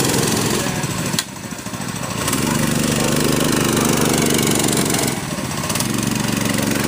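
6.5 hp single-cylinder four-stroke mini bike engine running hard under throttle, easing off sharply about a second in and again around five seconds in, then picking back up.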